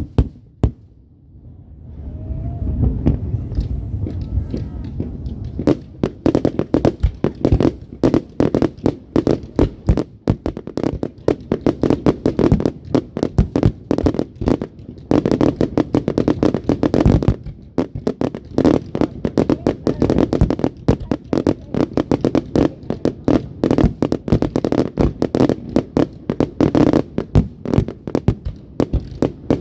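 Fireworks going off: a single sharp bang right at the start, a low rumble, then from about six seconds in a dense run of cracks and bangs, several a second, over a low rumble, with a short lull a little past halfway.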